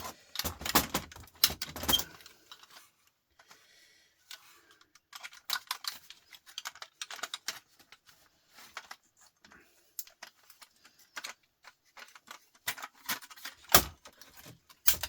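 Small metal parts of a CD changer clinking and rattling as they are handled and pulled apart: irregular clusters of sharp clicks and taps, busiest about five to seven seconds in and again near the end.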